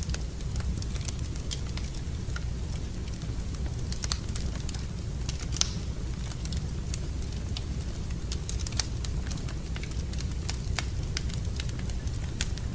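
Wood fire crackling in a fireplace: irregular sharp pops over a steady low rumble, with a couple of louder pops about halfway through and again later.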